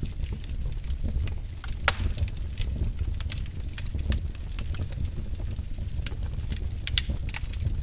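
Wood fire burning in a fireplace: a steady low rumble of flame with irregular sharp crackles and pops, a louder pop about two seconds in and another near seven seconds.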